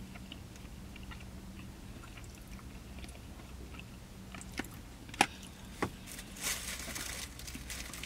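A person chewing a large mouthful of California roll sushi with the mouth closed, with a few sharp clicks about five to six seconds in. A steady low hum runs underneath.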